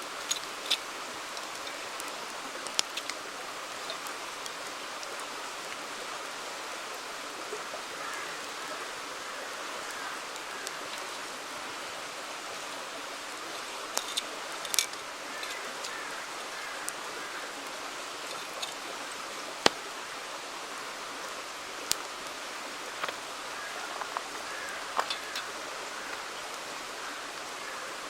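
Steady rushing of a river, with a wood campfire crackling over it in sharp, irregular pops, a dozen or so scattered through, the loudest about two-thirds of the way in.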